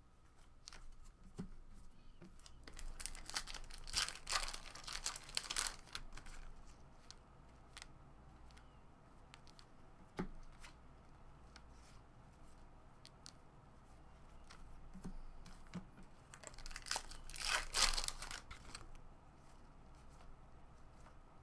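Foil wrappers of baseball card packs being torn open and crinkled, in two spells: a few seconds in and again about three-quarters of the way through. Small clicks of cards being handled come between them.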